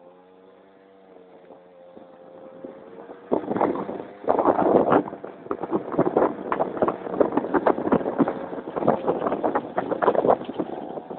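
Keeway Hurricane scooter's small two-stroke engine running at a steady idle, then from about three seconds in riding off, with loud wind buffeting on the microphone over the engine.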